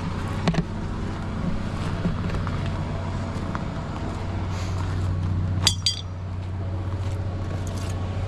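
Steady low drone of a ute's engine and road noise heard from inside the cab while driving. A sharp ringing clink comes a little over halfway through.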